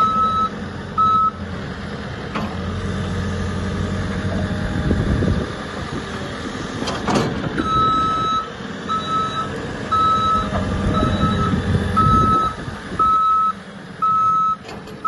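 A backhoe loader's reversing alarm beeping about once a second over its diesel engine running. The beeping stops for about six seconds after the start, then resumes, with a single sharp knock just before it returns.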